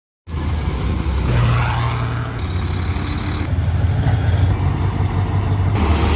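Truck's diesel engine running with a steady low hum; the sound cuts in abruptly just after the start.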